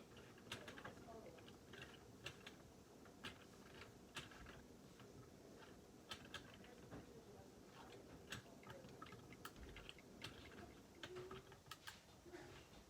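Faint, irregular light clicks of LEGO plastic pieces being handled and fitted together, about one every second.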